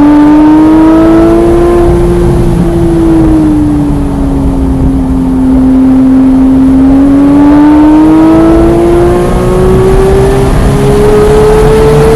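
Porsche 991.1 GT3's flat-six engine running hard at speed. The engine note rises a little, eases off and holds lower through the middle, then climbs steadily to high revs near the end.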